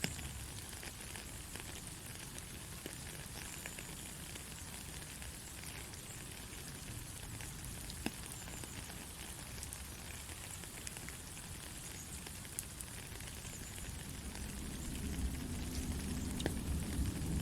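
Steady rain, an even hiss with scattered ticks of individual drops. A low rumble rises beneath it over the last few seconds.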